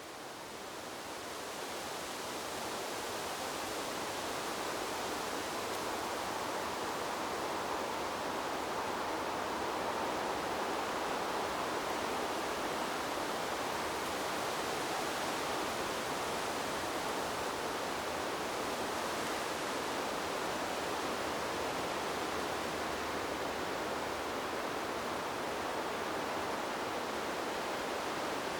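Wind blowing through a bamboo grove, a steady rushing of leaves and stems that fades in over the first couple of seconds and then holds even.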